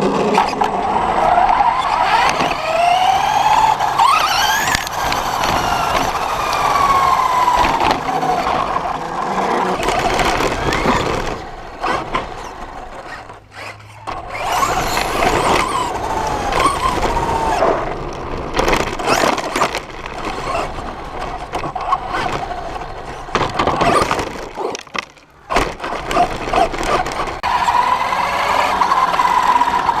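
Electric RC truck's motor and gears whining, the pitch rising and falling again and again as the throttle is worked, over rattling and tyre noise from the chassis. The sound drops away briefly twice, about 13 and 25 seconds in.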